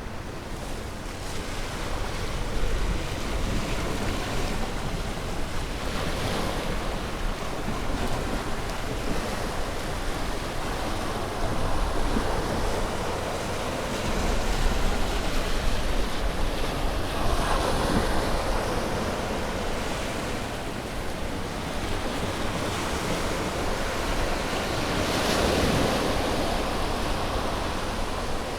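Ocean waves breaking and washing on a shore, a continuous surf wash that swells with each wave, about three times, with low rumble and some wind on the microphone.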